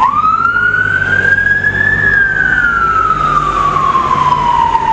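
Emergency vehicle siren wailing: one slow rise over about two seconds, then a slow fall, with the next rise beginning near the end. Traffic rumbles underneath.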